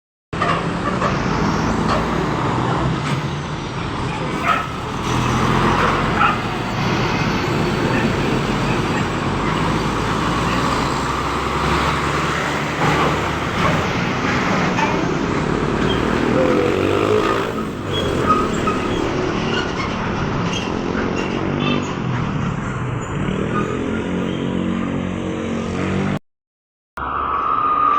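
Trucks and other traffic driving past on a road. Their engines run with pitch that rises and falls as they go by, over steady road noise. The sound breaks off briefly near the end.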